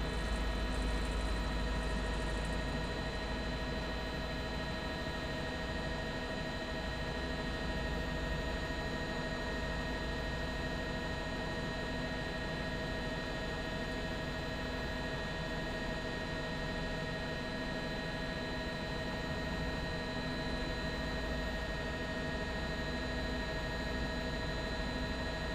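Steady drone of a news helicopter's engine and rotor as heard from inside the cabin: an unchanging hum of several steady tones over a low rumble.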